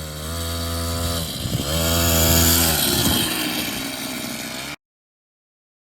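Fit Right DB002 50 cc two-stroke mini bike engine running hard at high revs. It drops off briefly about a second and a half in, comes back up, turns rougher, then cuts off abruptly near the end.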